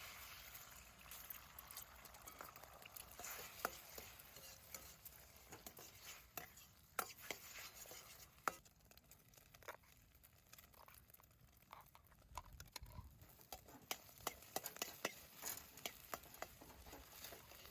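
Faint campfire cooking sounds: a soft steady hiss with many irregular small clicks and crackles throughout.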